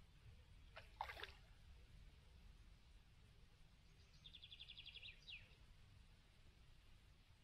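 Faint outdoor quiet with a low rumble and a few bird calls: falling notes about a second in, then a short rapid trill ending in a falling note about four to five seconds in.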